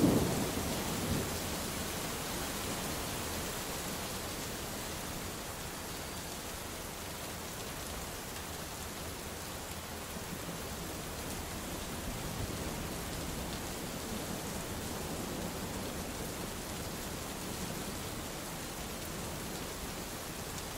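Steady rain with thunder: a thunder rumble dies away in the first second or two, then rain keeps falling evenly with faint low rumbles.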